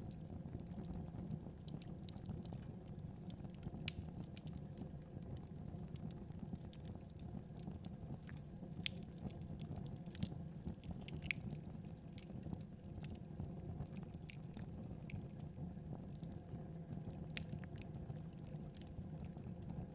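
Wood fire crackling: a steady low rumble of burning with scattered sharp pops and snaps, a few louder ones standing out.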